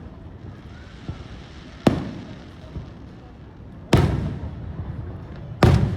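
Aerial fireworks shells bursting: three loud bangs roughly two seconds apart, each followed by a rolling echo.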